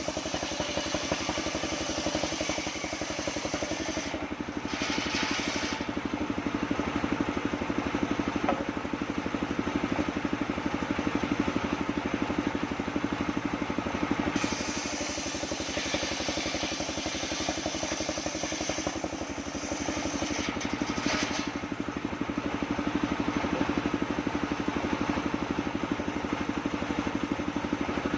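Engine of a homemade circular sawmill running steadily with a rapid even beat, with two stretches of brighter hissing noise over it, about four seconds in and again in the middle.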